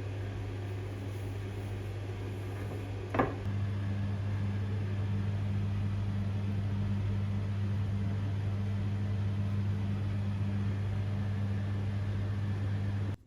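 An electric appliance running with a steady low hum. There is a click about three seconds in, after which the hum grows slightly louder, and it cuts off suddenly near the end.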